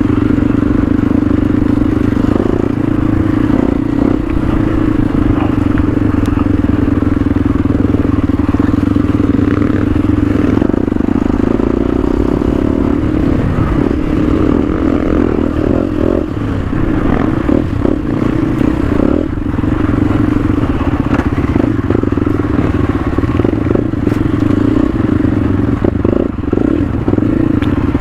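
Motorcycle engine running at a steady pitch while riding, with short knocks and rattles more frequent in the second half.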